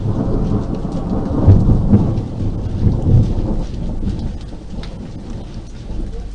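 Thunder rumbling over steady rain, swelling about a second and a half in and again about three seconds in, then dying away.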